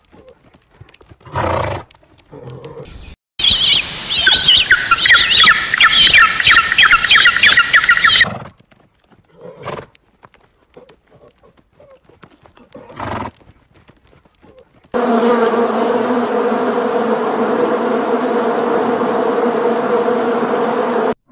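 Honeybees buzzing around a hive, a steady low hum, starting about two-thirds of the way in. Before it comes a louder animal call of about five seconds, pitched and pulsing, among a few short animal sounds.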